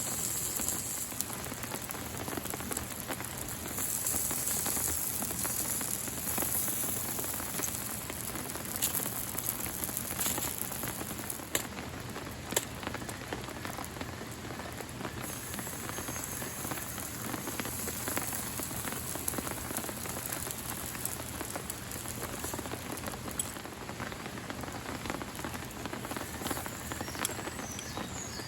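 Steady rain falling, its drops tapping on a surface over an even rushing hiss, with a couple of louder drips about twelve seconds in.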